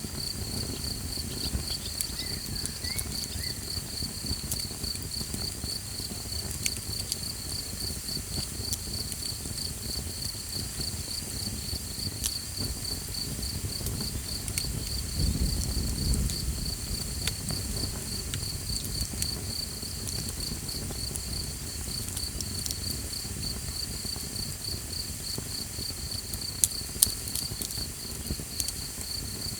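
Crickets chirping in a steady, fast-pulsing high trill over a small campfire crackling with scattered sharp pops. A low rumble swells briefly in the middle, and two louder pops come near the end.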